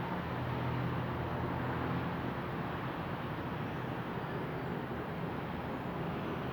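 Ventisilva 65 cm, 150 W electric fan running steadily: an even rush of air with a low motor hum.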